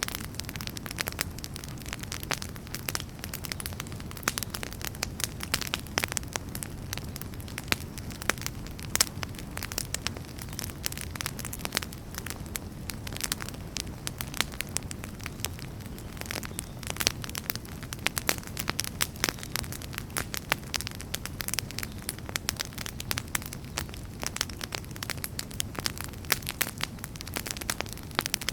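Wood fire burning in a fireplace: a steady low rumble of flame under frequent, irregular sharp crackles and pops of the burning logs.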